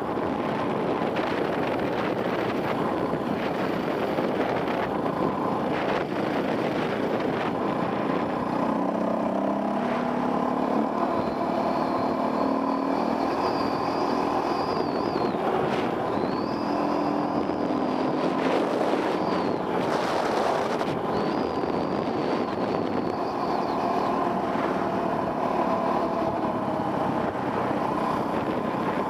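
Dirt bike engine running under varying throttle, its pitch rising and falling, heard from a helmet camera over a steady rush of wind and riding noise.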